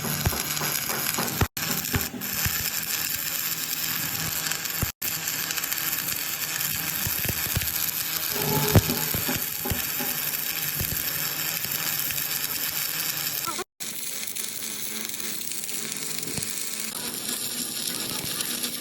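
Stick-welding arc from a 7018 electrode, a steady crackling sizzle with small irregular pops. The sound cuts out briefly three times.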